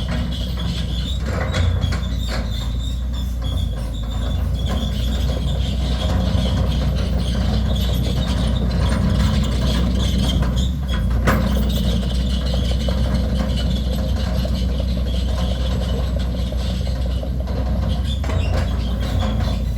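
Caterpillar 320D2 GC excavator's four-cylinder ACERT diesel engine running steadily: a constant deep drone with a light, quick mechanical clatter over it.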